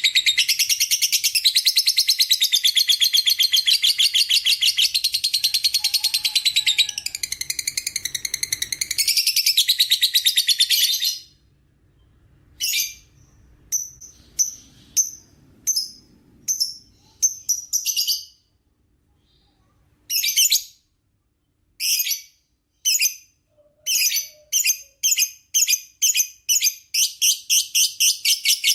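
Lovebird's long, rapid, high-pitched chattering trill (ngekek), a continuous run of about eleven seconds, then short bursts separated by pauses, then a fast continuous chatter again near the end.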